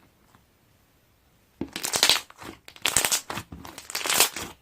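Rustling and crinkling in several loud, noisy bursts, starting about a second and a half in after a near-silent start.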